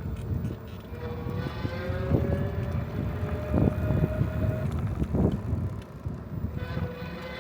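Wind buffeting the microphone and road rumble from a moving bicycle, with a few bumps. A whining tone creeps slightly up in pitch, stops about two-thirds of the way in and returns near the end.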